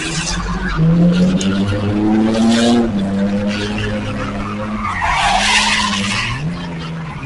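Car engine held at high revs while its tires skid and screech on the pavement, the revs dipping and climbing again near the end, with a loud surge of tire noise about five seconds in.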